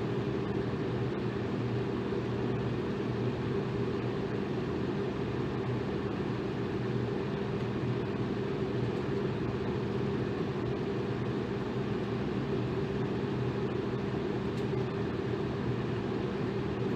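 Electric fan running steadily: an even rush of moving air over a low, constant motor hum, unchanging throughout.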